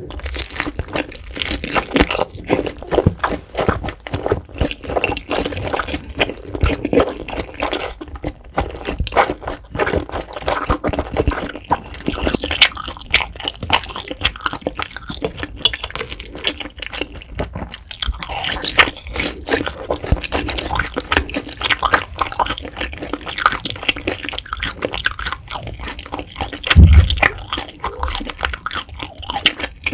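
Close-miked eating sounds: crunchy, wet chewing of a spicy fire-noodle wrap and grilled beef intestines, dense irregular crackles and mouth clicks. One low thump comes near the end.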